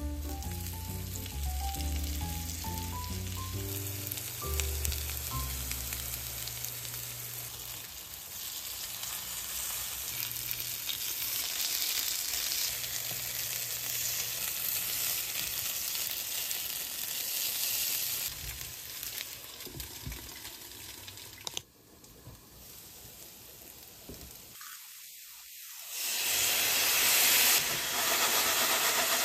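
Oil sizzling steadily as tofu-and-pork patties fry in a nonstick pan, with light background music over the first few seconds. Near the end the sizzling turns much louder as a soy sauce, sake and sugar sauce goes into the hot pan.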